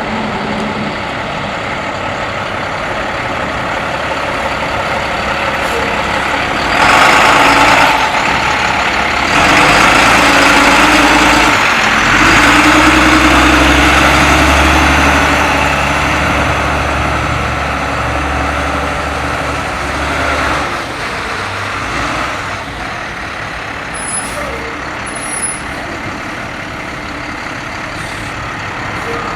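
International 7300's MaxxForce DT diesel engine running steadily. About seven seconds in there is a loud burst of hiss, and from about ten to twenty seconds in the engine grows louder with a deeper rumble.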